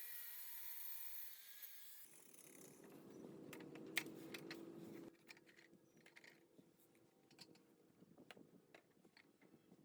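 A small motor whines and then hums, cutting off about five seconds in, followed by scattered light mechanical clicks and taps, the sharpest about four seconds in.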